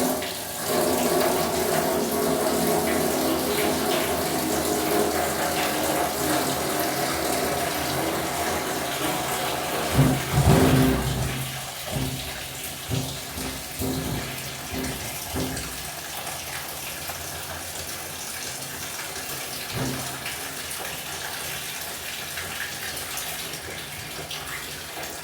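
Water running steadily from a tap into a sink while groceries are rinsed, with a few low bumps and knocks about ten seconds in and again a little later.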